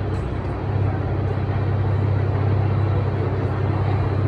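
CSX freight train passing with a steady low rumble.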